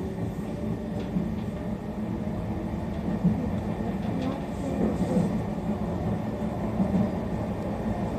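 Meitetsu 3500 series electric train running along the line, heard from the driver's cab: a steady running noise from wheels and running gear, with a few faint clicks.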